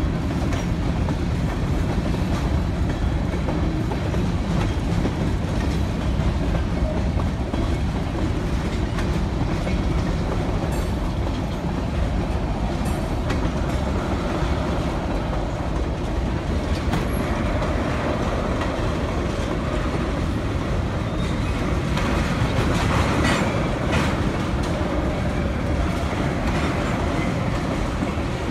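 Freight train of covered hoppers and tank cars rolling slowly past: a steady, loud rumble of steel wheels on rail with clickety-clack over the rail joints, getting harsher and higher-pitched for a couple of seconds near the end.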